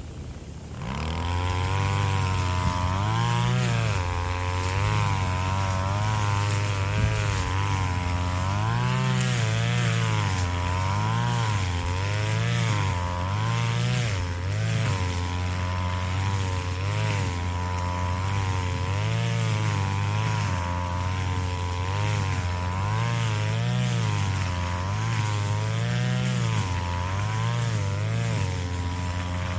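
Small engine of a grass cutter revving up about a second in, then running hard, its pitch dipping and recovering every second or two as it works through grass.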